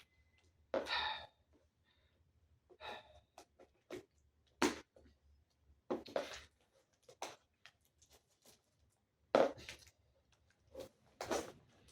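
Cardboard box and its tape being handled and pulled at in a small room: a string of short, irregular scrapes, rustles and knocks about a second apart, mixed with breaths of effort.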